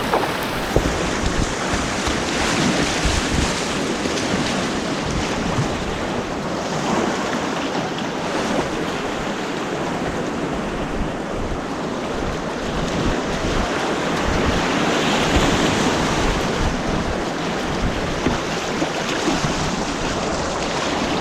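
Rushing white water of a whitewater course churning around a kayak, a steady roar of turbulent water with wind buffeting the microphone.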